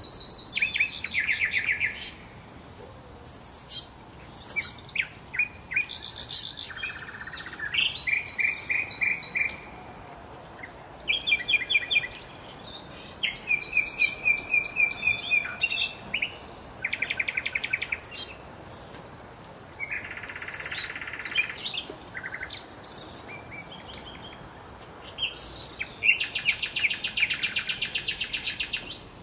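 Songbirds singing: one phrase after another of rapid trills and chirps, with short pauses between phrases.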